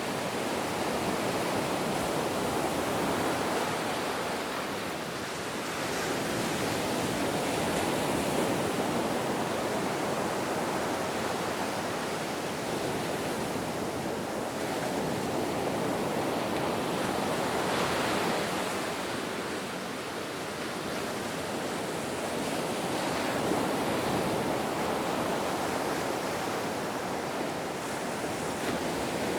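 Ocean waves washing onto a shore in a continuous rushing noise that swells and ebbs every few seconds.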